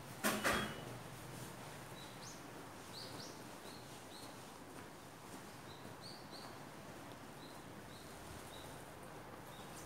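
A sharp knock about half a second in, then a small bird chirping over and over: short high chirps, each with a quick upward flick, coming every half second to a second over a steady background hiss.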